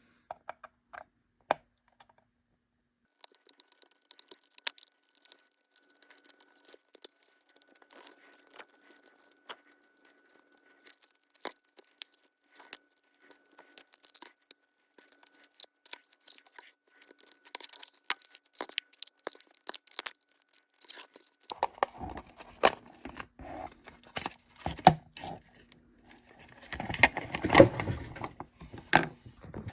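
Small clicks, scrapes and rustles of a plastic HO scale model boxcar being handled and pried open. The clicks are sparse at first, then come thicker and louder over the last several seconds.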